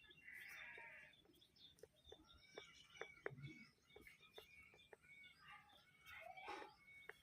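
Faint, scattered bird chirps and light clicks against near silence.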